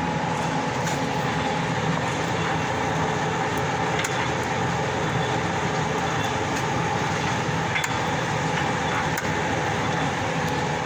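FT-11F1 lathe running under power with a steady whine and hum from its motor and gearbox, with the carriage traversing on its power feed. A few faint ticks sound over the running.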